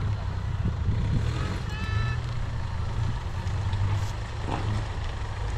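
Land Rover Freelander 1 engine running at low revs as the car crawls through deep mud ruts: a steady low rumble. A brief high-pitched tone sounds about two seconds in.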